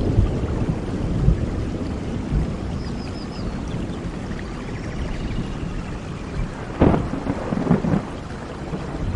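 Thunderstorm: steady rain with rolling thunder that fades over the first few seconds, then two sharp cracks of thunder about seven seconds in.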